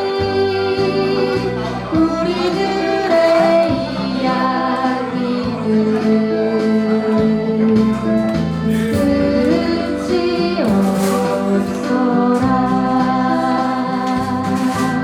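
A woman singing a Korean folk song live, with instrumental accompaniment and a moving bass line.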